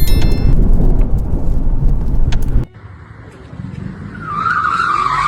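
A loud, low rumble of tornado wind heard from inside a car cuts off abruptly about two and a half seconds in. A car's tyres then squeal in a wavering skid that builds toward the end.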